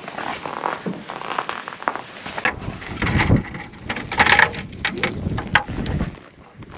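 Boots crunching through snow in an irregular series of crisp crackles, with wind gusting on the microphone as a low rumble from about halfway through.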